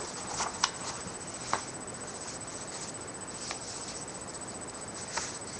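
A sheet of A4 paper being folded and creased by hand: a few short, scattered crinkles and taps over a steady background hiss.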